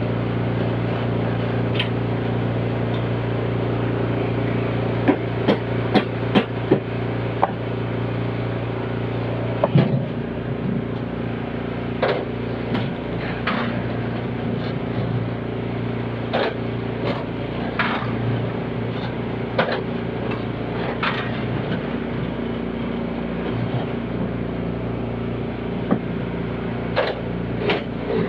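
An engine running steadily, with scattered sharp knocks over it, a quick run of them about five to seven seconds in.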